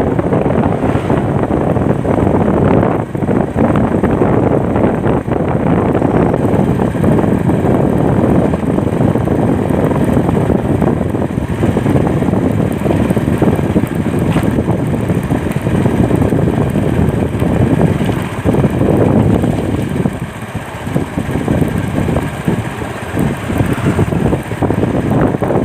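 Wind buffeting the microphone on a moving vehicle, with road and engine noise underneath.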